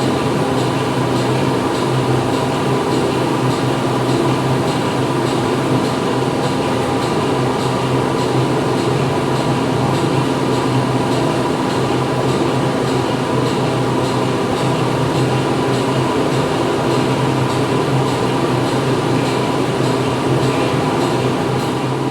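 Factory interior ambience: dense, steady machine noise with a constant low hum and several held tones, with no single event standing out.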